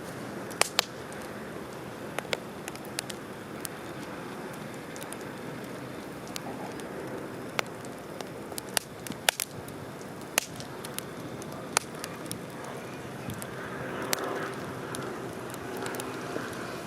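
Wood campfire crackling: irregular sharp pops and snaps over the steady hiss of the burning fire.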